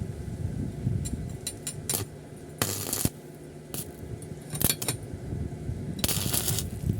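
Light metal clinks and a few short, sharp noisy bursts over a steady low rumble.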